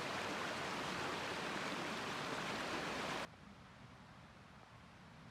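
Steady rushing noise that cuts off abruptly about three seconds in, leaving only a faint background.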